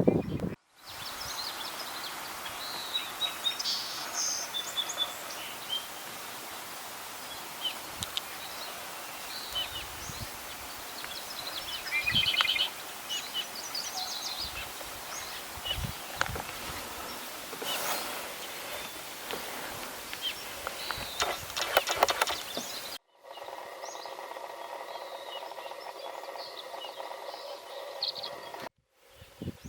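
Outdoor ambience with several wild birds chirping and trilling over a steady background hiss. About three-quarters of the way through, the sound cuts abruptly to a steady droning hum with a few faint chirps.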